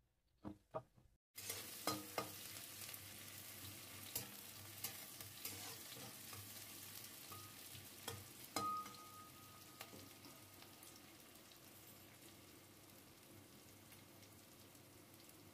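Chopped onion, garlic, green chilli and ginger sizzling in mustard oil in a kadai, while a metal spatula scrapes and clicks against the pan as it stirs them. The sizzle starts suddenly about a second in and slowly fades.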